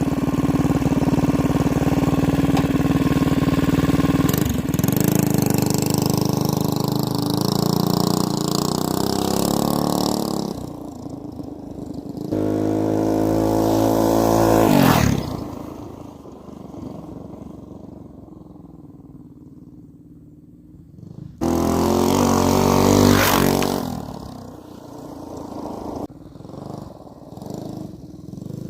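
Coleman CT200-U mini bike's small single-cylinder engine running hard under way, then revving up in a rising pitch about halfway through before dropping back to a low hum. About three quarters of the way in it cuts back in suddenly at full level, rises again, and then fades.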